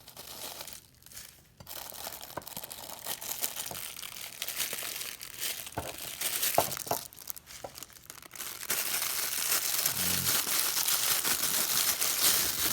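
Plastic packaging wrap crinkling and rustling as it is handled and pulled open by hand, with many small crackles; it grows louder for the last few seconds.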